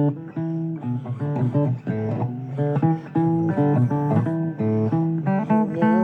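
Blues guitar playing an instrumental passage of plucked notes and strums between vocal lines.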